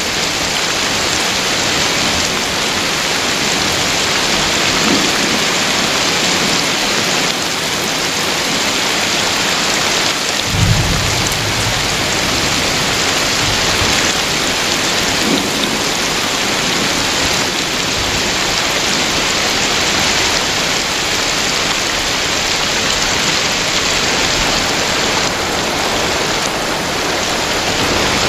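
Heavy rain pouring steadily and splashing onto wet, puddled ground, with a short low rumble of thunder about ten seconds in.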